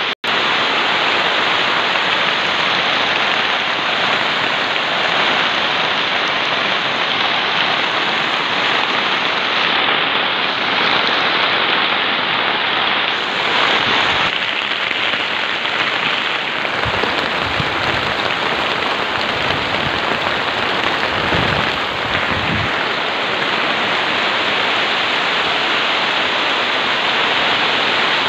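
Heavy rain pouring steadily on a field hut, with a few brief low rumbles in the second half.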